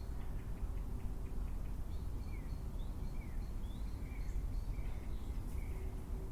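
Wild birds chirping and calling, a string of short chirps and slurred notes, over a steady low rumble.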